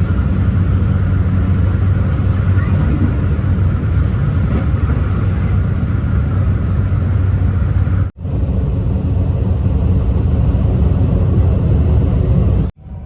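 Passenger train running, heard as a loud, steady low rumble with a faint high hum over it. The sound cuts out abruptly about eight seconds in and again near the end.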